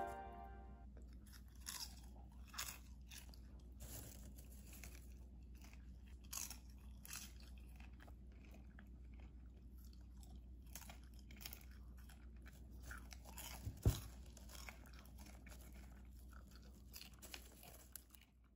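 Faint crunching of popcorn being chewed, in short irregular crunches, with light rustling of popcorn in a silicone bowl as a hand picks it up. A single sharper knock sounds about fourteen seconds in.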